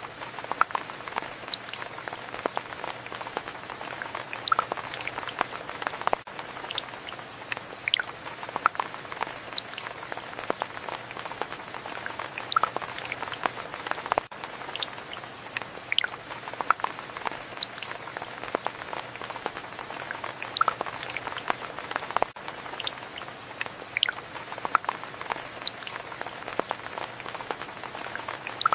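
Steady rain: an even hiss with many separate drops ticking sharply close by.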